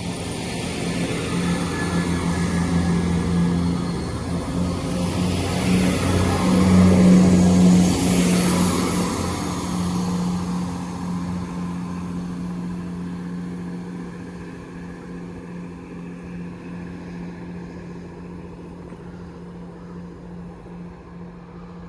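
CrossCountry Class 170 Turbostar diesel multiple unit passing, its diesel engines running with a steady low hum. It grows loudest about seven seconds in, then fades slowly as the train draws away.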